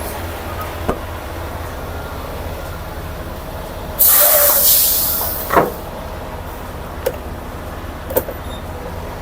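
Semi truck running with a steady low rumble. About four seconds in, a loud hiss of released air fades out over about a second and a half, typical of a truck's air brake system, followed by a short knock and a few lighter clicks.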